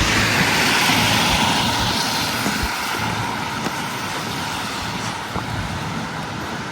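Street traffic: a motor vehicle passing close by, its rushing noise loudest at the start and slowly fading away.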